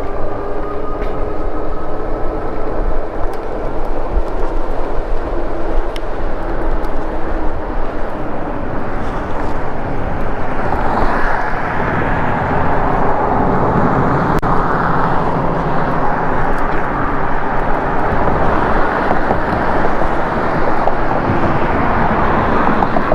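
Steady wind and road noise on a chest-mounted action camera's microphone while riding an e-bike through town traffic. A faint whine rises slowly in pitch during the first few seconds, and the rushing grows louder from about ten seconds in.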